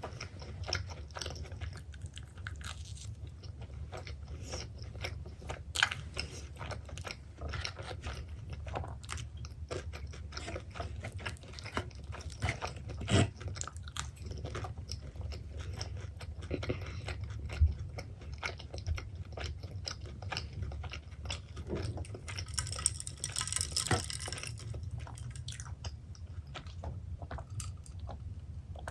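Close-miked chewing and biting of pepperoni pizza: a steady run of crunchy, wet mouth clicks with a few sharper bites, and a short burst of hiss a little over 20 seconds in.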